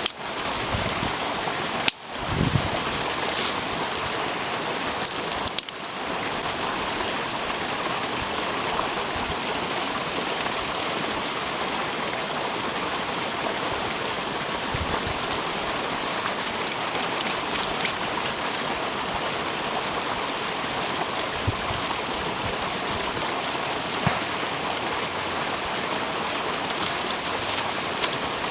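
Stream water flowing over rocks in a steady rush, with a few sharp clicks in the first several seconds.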